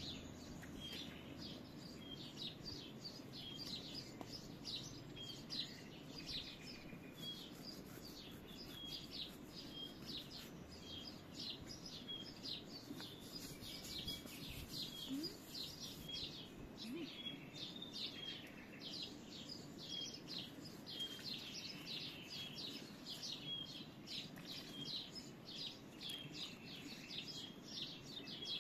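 Small birds chirping continuously, a run of short high chirps following one another several times a second, over a faint low steady background noise.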